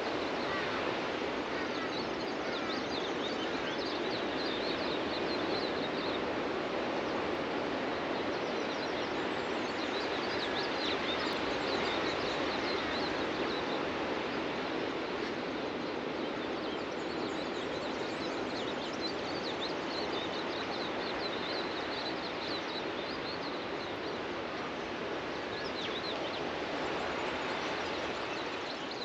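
Ocean surf washing steadily onto a beach, with birds chirping at intervals over it.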